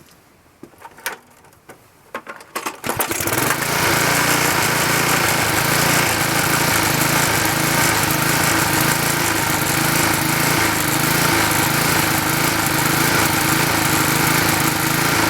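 A few clicks and knocks, then a Briggs & Stratton Quattro 40 single-cylinder four-stroke lawnmower engine starts about three seconds in and runs steadily. The engine is still running rich, from a faulty carburettor that the owner means to replace.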